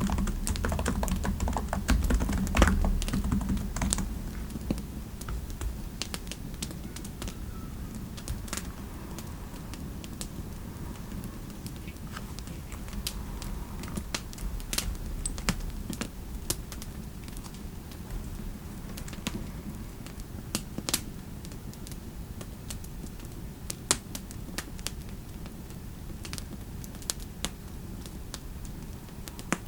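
Typing on a computer keyboard, a dense run of keystrokes for about the first four seconds, then only scattered sharp clicks. A steady low rumble of fireplace ambience sits underneath.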